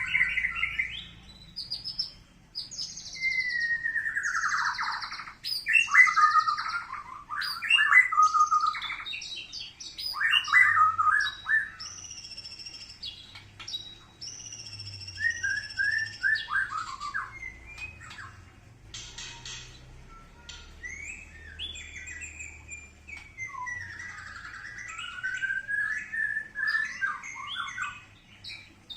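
White-rumped shama (murai batu) singing a long, varied song of clear whistled phrases, rising and falling glides, buzzy rattles and quick chattering notes, broken by short pauses between phrases.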